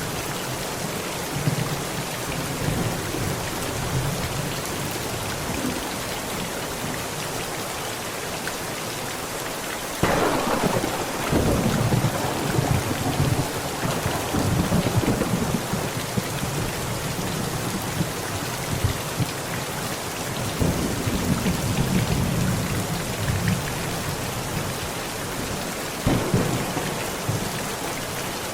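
Heavy rain falling steadily on a tent, with thunder: a sudden clap about ten seconds in that rumbles on for several seconds, another rumble later, and a further crack near the end.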